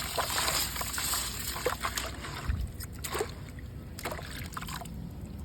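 Wet, gritty red mud crumbling and dropping into water, with crackles and small splashes. Dense for the first half, then thinning to a few scattered drops.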